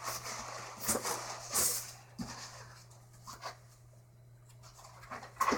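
Cardboard box and packaging being handled: scattered rustles and knocks, busiest in the first two seconds, then quieter, with a few more knocks near the end.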